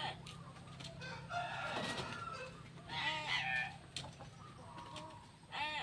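Birds calling: several short, harsh calls a second or two apart, the loudest about three seconds in, over a faint steady hum.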